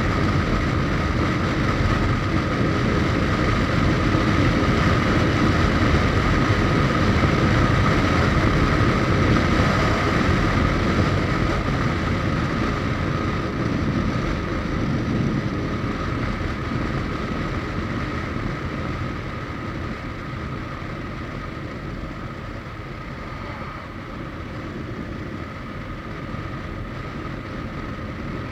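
Suzuki GSX1250FA inline-four motorcycle underway: a steady rumble of engine and wind rush with a thin steady whine on top, easing gradually quieter through the second half.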